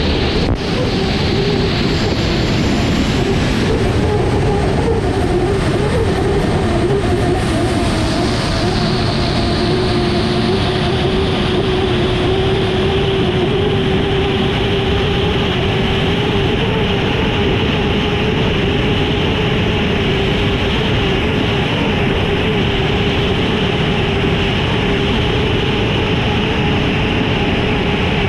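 Unlimited hydroplane's gas-turbine engine running at racing power, heard onboard amid heavy wind and water rush. It holds a steady pitch, with a thin high whine over it that fades out about nine seconds in.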